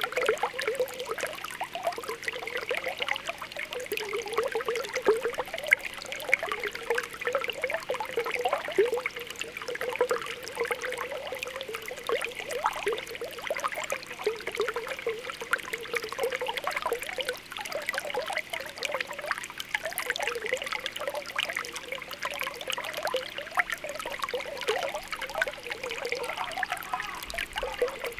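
Spring water welling up through a pool, popping and bubbling in a continuous stream of small, quick pops.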